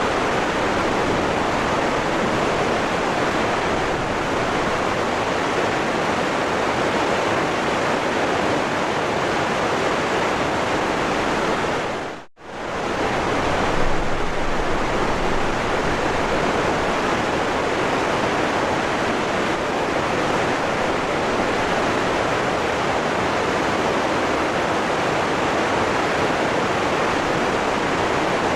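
Waterfall rushing in a steady, dense roar of water. About twelve seconds in it fades out to nothing for a moment and straight back in, like a loop join in the recording.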